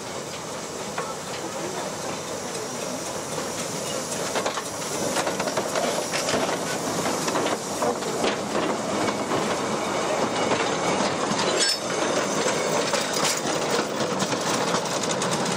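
A train rolling along the track, its wheels clicking over the rails, getting louder over the first few seconds and then holding steady.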